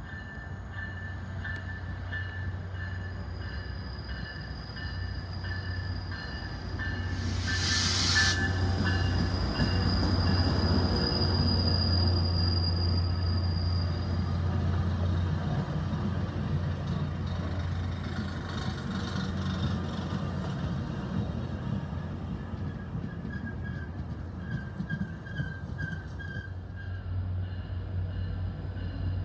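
Tri-Rail commuter train approaching and rolling past close by, a steady low engine hum under the sound of the wheels and bilevel coaches on the track. It grows louder with a sharp rush of noise about seven seconds in, then a thin high wheel squeal for several seconds.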